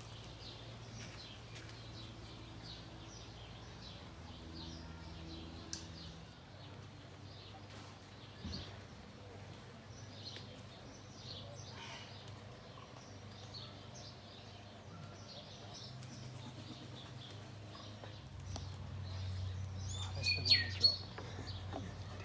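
Small songbirds chirping and tweeting in many short high calls throughout, with a louder burst of calls about twenty seconds in, over a low steady hum.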